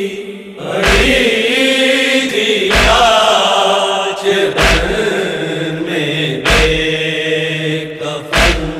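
Urdu noha (Shia lament) chanted by a group of male voices in long, drawn-out lines, kept in time by a deep thump about every two seconds, the beat of matam (chest-beating).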